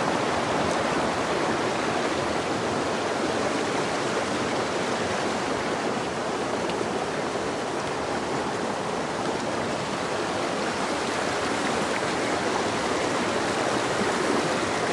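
Mountain stream water rushing steadily over rocks, a continuous even wash.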